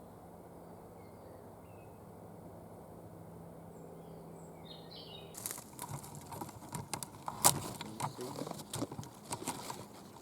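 Faint short songbird chirps over a quiet outdoor background, then from about halfway a run of close rustles and sharp knocks, loudest a couple of seconds later.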